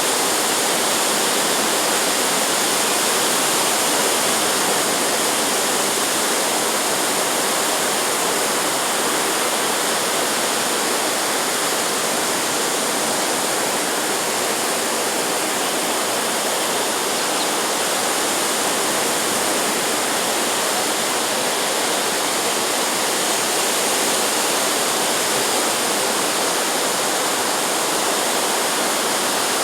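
Steady, even rushing noise with no rise, fall or breaks.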